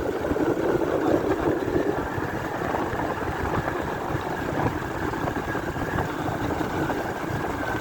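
Motorbike engine running steadily while riding, with ragged wind noise on the microphone.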